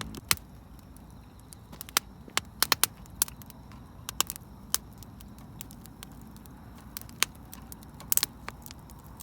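Small wood fire crackling in a compact mini stove, with sharp irregular pops of burning firewood over a low steady rush of flame.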